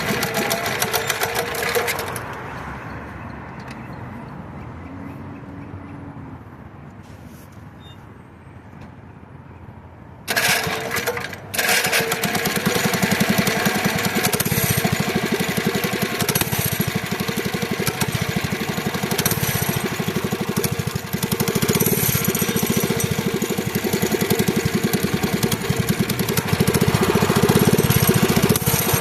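Mini bike's small engine running, then dropping to a low, quiet sound for about eight seconds. About ten seconds in it comes back suddenly, falters briefly, then runs steadily and loudly to the end.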